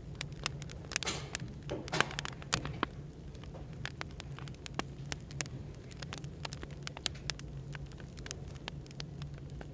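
Wood fire crackling, with frequent irregular sharp pops and a brief hissing flare about a second in, over a steady low hum of café background noise.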